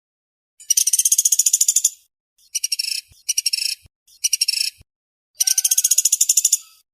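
Pelatuk beras woodpecker, a flameback, calling in fast, dense rattling trills: a long trill, three short bursts, then another long trill, with short silences between.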